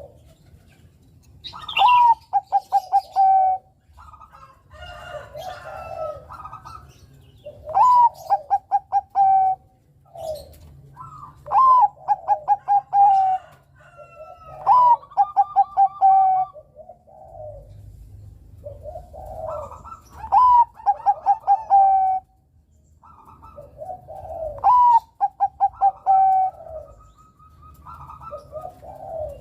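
Zebra dove (perkutut, Bangkok song line) cooing: six loud phrases, each a rising opening note followed by a quick run of short staccato coos, with softer, lower cooing between the phrases.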